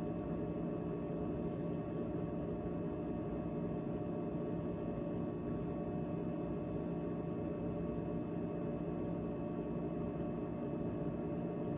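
GE GTH18XCTZRBB refrigerator running after its defrost heating cycle: a steady hum made of several fixed pitches over a low rumble, unchanging throughout.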